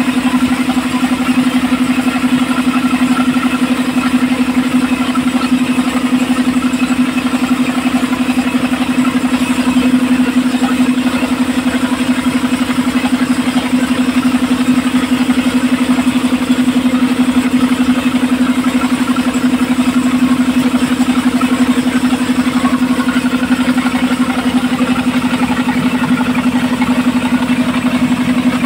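The engine of a homemade belt-driven circular sawmill running steadily at a constant speed, with a strong even hum.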